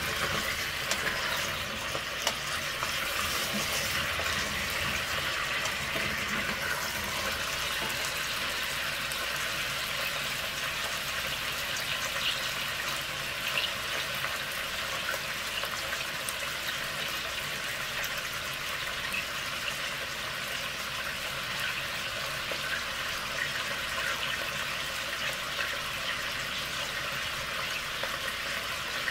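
Potatoes frying in hot palm oil: a steady sizzle with scattered small crackles.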